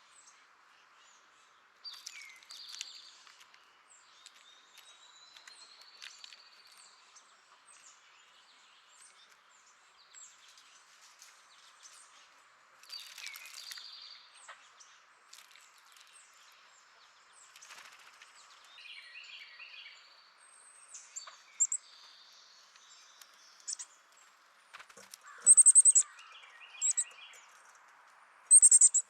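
Wild songbirds calling and chirping in scattered short calls over a steady faint hiss, with the loudest sharp, high chirps near the end.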